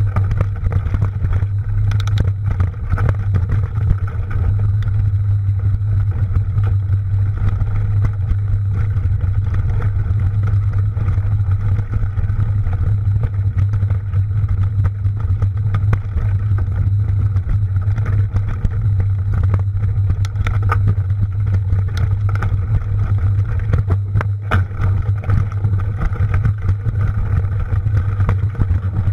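Steady low rumble with scattered clicks and rattles from a mountain bike being ridden over rough ground: wind on the mounted camera's microphone and the bike rattling.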